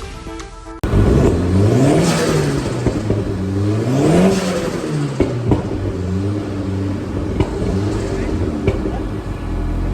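Car engine revved twice, rising and falling in pitch each time, then settling to a steady idle.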